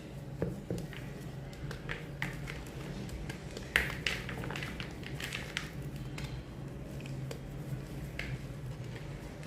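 Crumbly chalk-like material crushed by hand: scattered crisp cracks and crunches, the sharpest about four seconds in, over a steady low hum.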